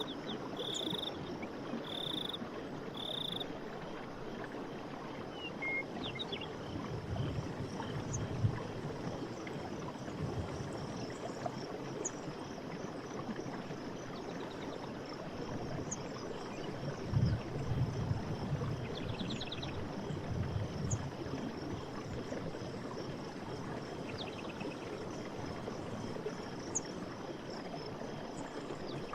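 Night forest ambience: a steady rushing hiss with regular high chirps for the first few seconds, a few short high trills later on, and two spells of low rumbling about 7 and 17 seconds in.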